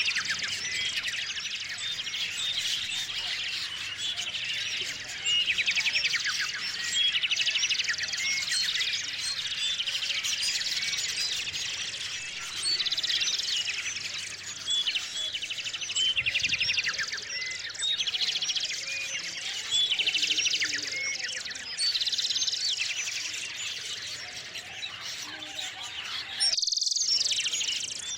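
A chorus of small songbirds chirping and twittering, with many short high calls and several rapid trills overlapping.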